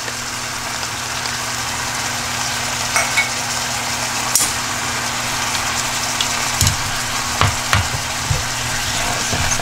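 Sliced beef and vegetables sizzling steadily as they stir-fry in a hot pan over medium heat, freshly dressed with soy and oyster sauce. A few short knocks and scrapes of wooden utensils against the pan come through, mostly in the second half.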